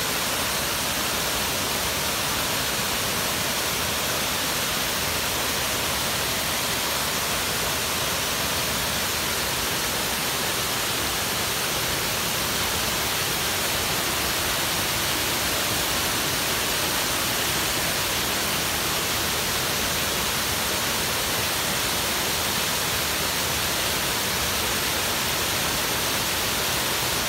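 Small waterfall on a forest stream: water falling and splashing in a steady, unbroken rush.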